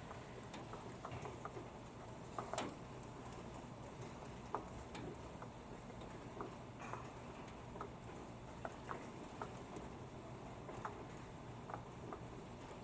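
Raindrops dripping: irregular sharp ticks, a few a second, over a faint steady hiss of rain.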